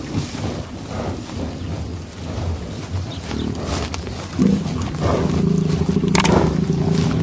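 A buffalo bellowing: one long, low, steady call starting about four seconds in and held for about three seconds, over a low rumbling background. A sharp click sounds during the call.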